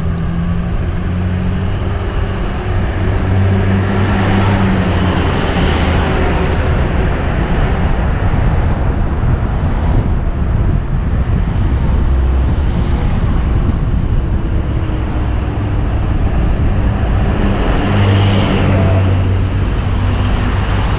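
Road traffic heard from a moving bicycle, with a steady rush of wind on a helmet-mounted camera microphone. Motor vehicles pass close by, their engine hum heard in the first few seconds and again near the end.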